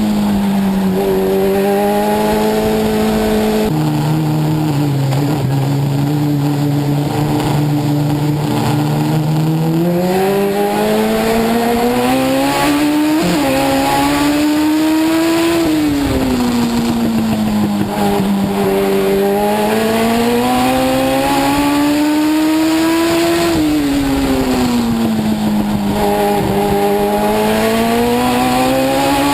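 Legend car's Yamaha four-cylinder motorcycle engine at racing speed, heard from inside the car. The engine note climbs as it accelerates down each straight and drops as the driver lifts for the turns, rising and falling about every eight seconds.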